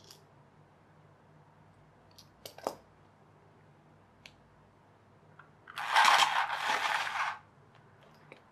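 A few light clicks and knocks of small parts on a worktop, then about a second and a half of loud clattering and scraping as small bits and debris are cleared off it.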